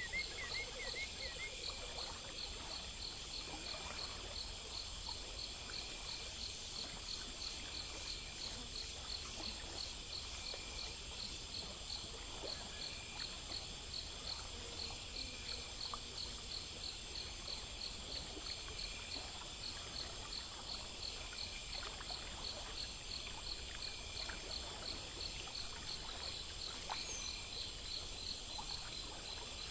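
Chorus of crickets and other insects: a steady high trill with evenly repeating chirps, over a faint trickle of water.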